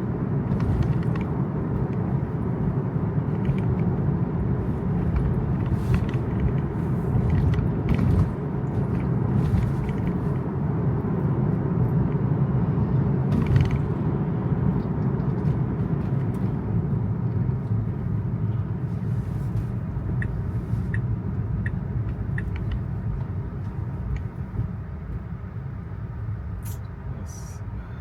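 Steady low rumble and hiss of a Tesla's tyres on wet road, heard from inside the car, with scattered faint clicks; it eases off a little in the last few seconds.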